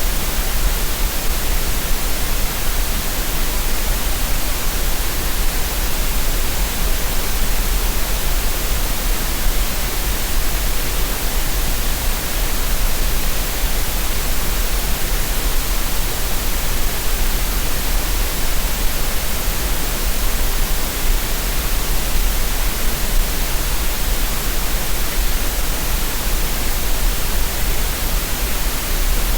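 Steady synthetic green noise: an even, unbroken hiss with a deep rumble underneath, unchanging throughout.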